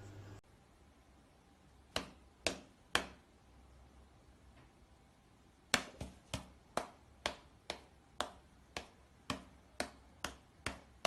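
A series of sharp taps: three about half a second apart, then after a pause of a couple of seconds about a dozen more at a steady rhythm of roughly two a second.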